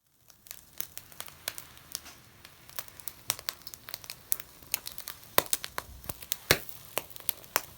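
Wood bonfire crackling: a steady stream of irregular sharp pops and snaps, with several louder pops in the second half.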